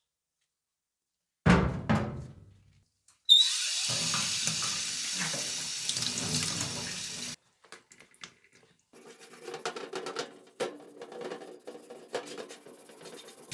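Two sharp knocks, then water running hard from a tap for about four seconds and stopping abruptly, followed by quieter irregular scraping and clicking, as of something being rubbed or scrubbed.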